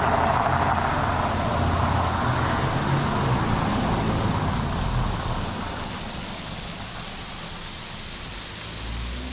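Steady rushing of a waterfall's falling water, with the low hum of a passing car's engine. The rush eases off a little just past halfway.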